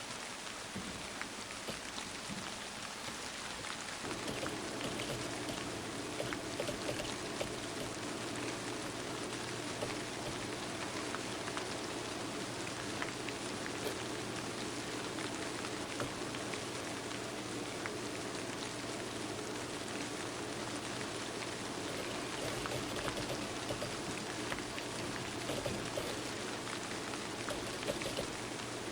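Rain falling, a steady patter of many drops. From about four seconds in a steady low hum joins it.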